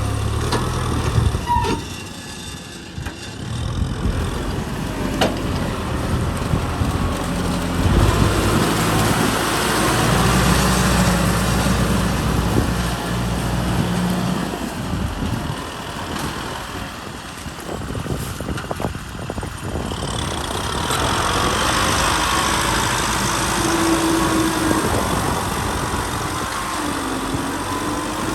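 Kubota M6040 SU tractor's diesel engine running under load while plowing, its level dipping and swelling as it goes.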